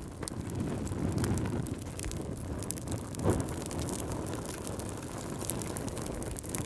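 Wood fire burning: a low steady rumble of flames with scattered sharp crackles and one louder pop a little after three seconds in.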